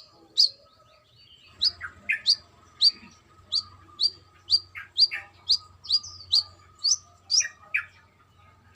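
Brown-throated sunbird calling: a quick series of sharp, high chirps, about two a second, each dropping steeply in pitch. One chirp comes at the start, then the run begins after a short pause.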